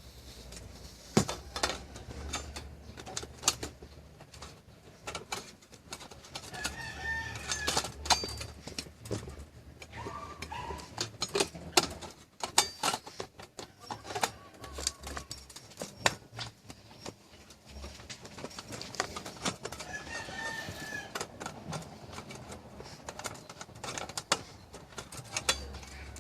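A rooster crowing twice, about seven seconds in and again about twenty seconds in, over scattered sharp clicks and clinks of small metal parts being handled.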